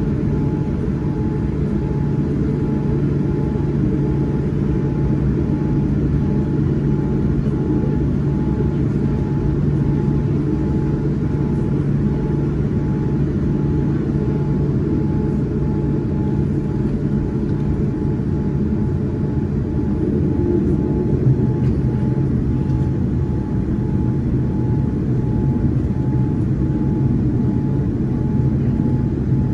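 Boeing 787-9 with GEnx engines heard from inside the cabin: a steady low rumble of engines and airframe with a faint whine above it, holding level throughout.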